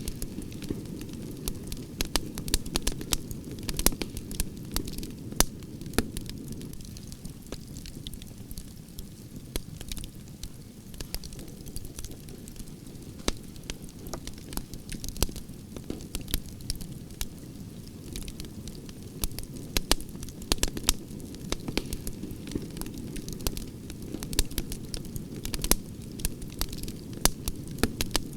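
Wood fire of burning branches crackling, with irregular sharp snaps and pops over a steady low rushing sound of the flames.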